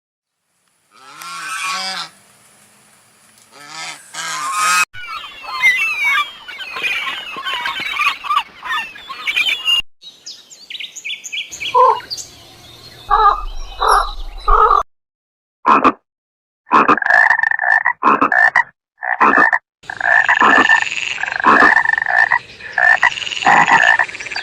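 Animal calls in several short clips joined with abrupt cuts. A few brief calls come first, then a dense chorus of many overlapping calls, then runs of short repeated calls, about one or two a second.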